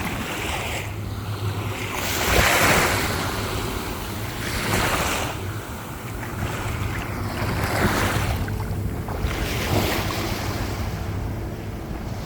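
Small waves washing in on a shore, a rush of water swelling and falling back every two to three seconds, loudest about two and a half seconds in. Wind is on the microphone.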